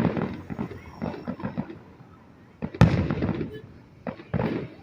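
Fireworks going off: a run of crackling bursts for the first couple of seconds, then a single sharp, loud bang about three seconds in, and another burst near the end.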